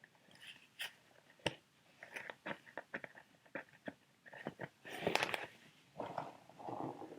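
Plastic sheet mask packets being handled for ASMR: crinkling and tapping, a string of sharp clicks with a louder crinkle about five seconds in.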